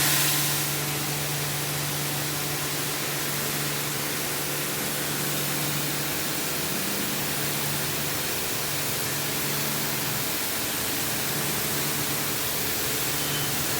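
High-pressure car wash water spraying with a steady hiss, over a steady low hum from the pressure washer's pump.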